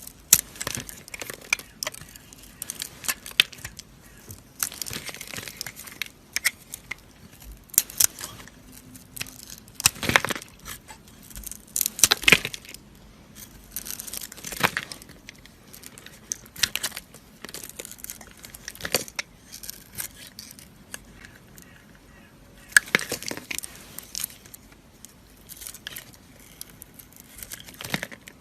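Dry soap being cut and crushed with a blade: irregular crisp crunches and crackles, some in quick clusters, a few louder than the rest.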